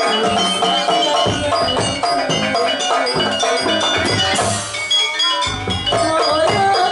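Live jaranan music from a Javanese percussion ensemble: hand drums beating under ringing metallophone and gong tones, with a melodic line that bends in pitch.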